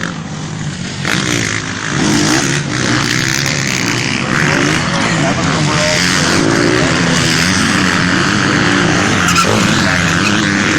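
Several motocross bikes racing past, their engines revving up and down as they change gear. The engines grow louder about two seconds in and stay loud.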